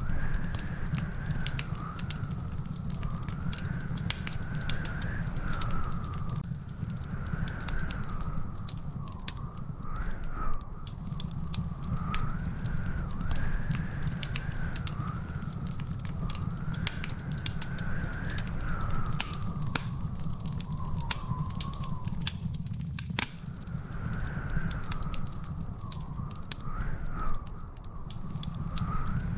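Wood fire crackling with dense irregular pops over a steady low roar, with a thin wavering whistle-like tone that rises and falls throughout.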